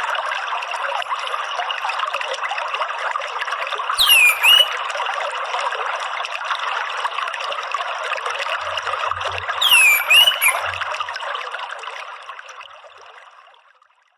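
Water trickling and splashing steadily, with two short whistled calls from an orange-headed thrush, each falling sharply then turning up, about four and ten seconds in. The sound fades out near the end.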